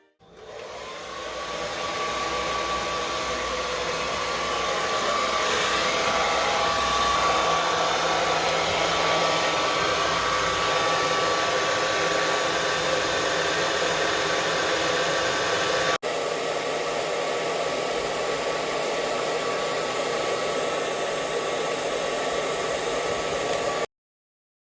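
Hair dryer running steadily with a faint whine, used to get a dog used to its noise. It comes up to full strength over the first couple of seconds, breaks off for an instant about two-thirds through, and cuts off suddenly near the end.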